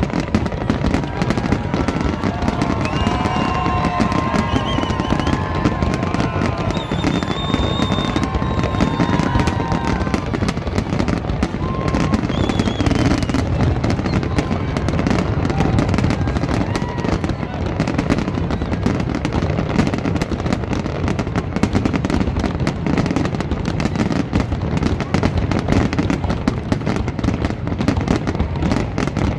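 Aerial fireworks going off in dense, continuous succession, a steady rapid stream of bangs and crackles, with people's voices and some pitched whistles over them in the first ten seconds or so.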